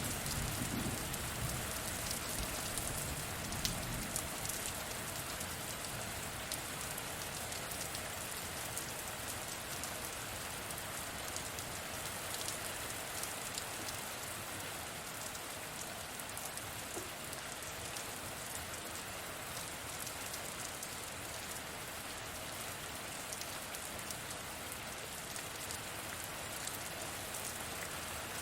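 Steady heavy rain with a dense patter of drops. A low thunder rumble dies away in the first few seconds.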